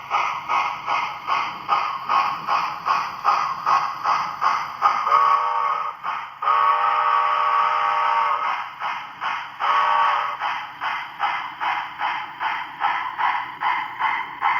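HO scale 2-6-6-4 steam locomotive model's DCC sound decoder playing steady steam exhaust chuffs at about two and a half a second, with whistle blasts: a short one about five seconds in, a long one right after, and a short one near ten seconds.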